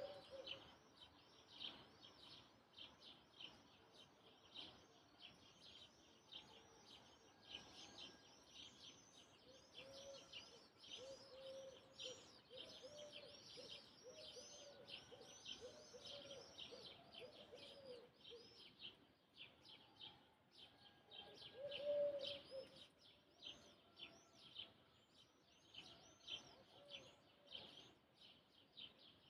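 Morning bird chorus: many small birds chirping rapidly and without pause, with lower calls joining in from about ten seconds in and loudest around twenty-two seconds. Faint.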